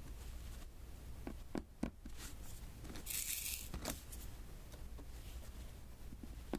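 Diamond-painting pen tapping small resin drills onto the sticky canvas: a few light clicks, and about three seconds in a short high crackle of the sticky surface.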